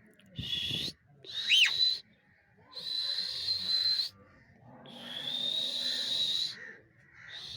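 Pet parrot giving harsh, hissing screech calls: a short one, a quick whistle that rises and falls, then two long drawn-out screeches, the last about two seconds long.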